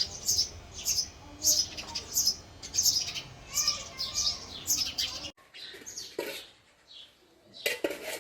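Male house sparrow chirping, a steady run of short sharp chirps about one every half second. About five seconds in the chirping breaks off abruptly, then fainter chirps follow and a louder cluster of chirps comes near the end.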